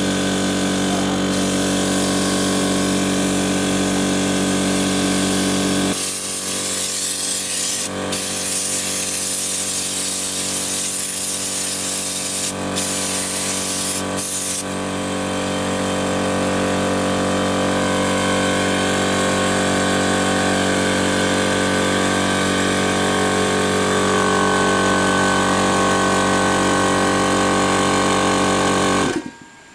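Electric power tool running steadily with a constant motor whine. From about six seconds in to about fifteen its pitch drops and a hissing noise rises, broken by a few brief dips, typical of the tool cutting into wood; it then runs free again and stops abruptly near the end.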